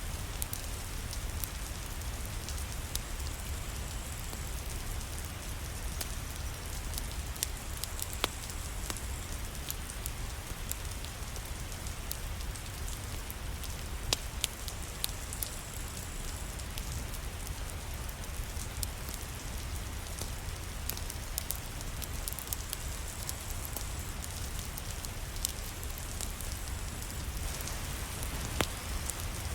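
Steady rain falling, with a low rumble underneath and scattered sharp crackles from a wood fire in a fireplace, a few more of them near the end.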